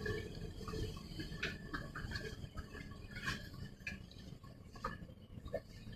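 Low, steady rumble inside an Elizabeth line train carriage, with faint scattered clicks and ticks from the carriage.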